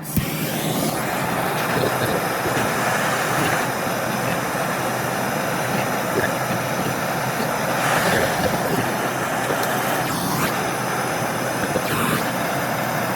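MAPP gas torch lit with a click, then burning with a steady hiss as it heats the cracked brass hammer head for brazing.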